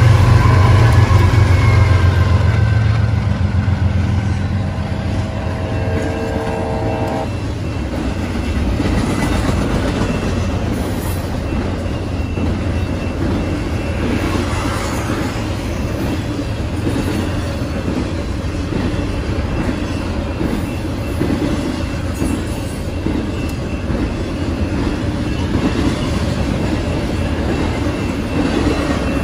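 BNSF diesel locomotive passing close by, its engine loudest in the first few seconds, with its horn sounding a chord that cuts off about seven seconds in. After that the intermodal train's cars roll past, the wheels rumbling and clacking steadily over the rails.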